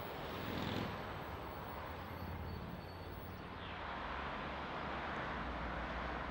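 Steady rumbling hiss of a train running on the line, growing a little louder after about four seconds.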